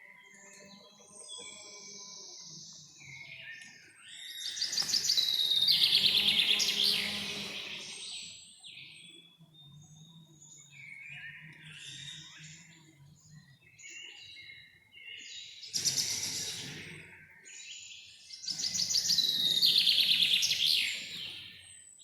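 Wild birds singing in a forest, with scattered high chirps and two loud, rapidly trilled song phrases, one about a quarter of the way in and one near the end.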